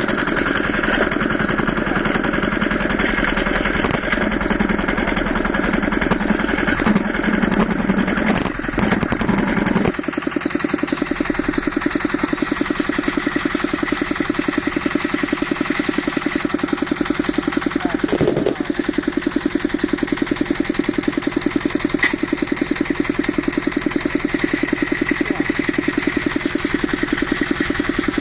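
Engine running steadily with a steady whistle above its beat, a symptom that came on together with a dragging clutch. The engine's note changes about ten seconds in and then settles into a more even beat.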